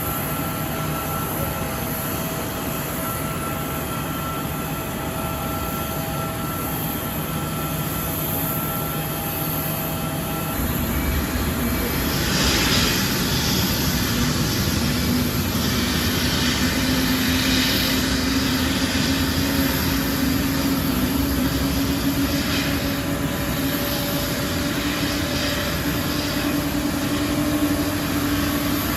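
Twin jet engines of an ANA Boeing 777-200ER running on the ground, with a steady hiss. About ten seconds in they grow louder, and a low hum slowly rises in pitch as the thrust builds.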